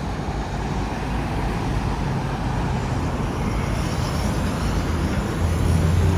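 Road traffic with car engines running, a low engine rumble swelling louder near the end.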